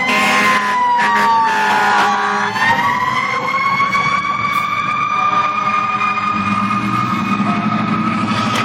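Fire truck siren wailing as the truck pulls out. The tone dips over the first couple of seconds, then climbs and holds high, over the truck's diesel engine, which gets louder near the end.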